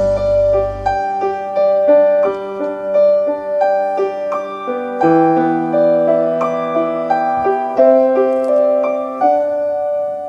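Piano playing an instrumental interlude without singing: a gentle melody of single notes, each struck and left to ring, over sustained low notes.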